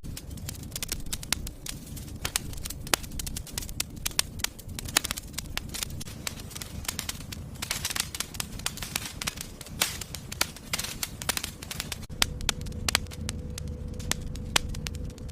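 Wood fire burning in a fireplace, crackling with many sharp pops and snaps over a steady low rumble of the flames. A faint steady hum joins near the end.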